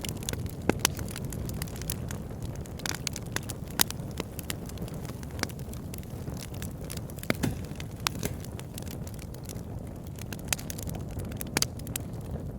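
Fire burning in a fireplace: a steady low rumble of flames with sharp crackles and pops scattered irregularly throughout, a few of them louder snaps.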